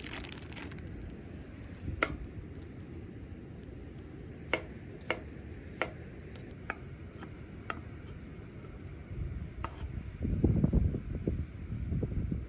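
Scattered light clinks and taps of camp gear, metal or glass, being handled, a few seconds apart, over a steady low outdoor background. Near the end comes a louder stretch of low bumping and rustling handling noise.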